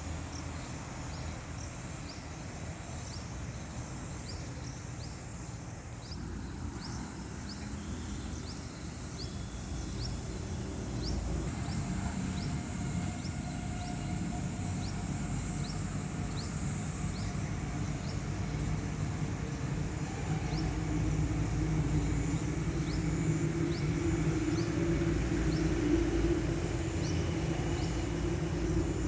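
A small bird repeats a short high chirp about once a second over a steady low rushing rumble that grows louder in the second half.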